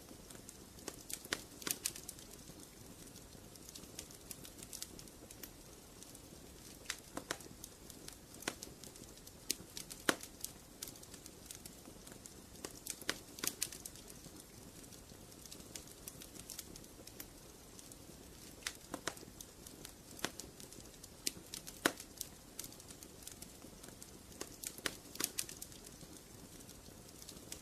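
Wood fire in a fireplace crackling, with irregular sharp pops and snaps over a low steady hiss of burning.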